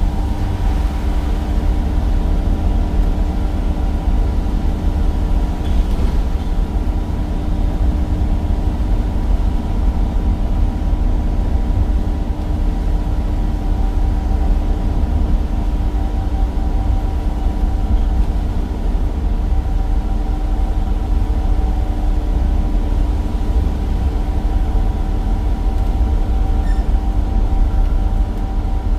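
Cummins diesel engine of a bus running steadily on the move, heard from on board: a strong low rumble with a steady whine over it.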